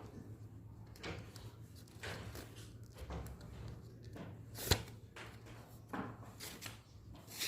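A sheet of paper being handled and folded into a paper airplane: a run of short rustles and creases, with one sharp snap a little past halfway.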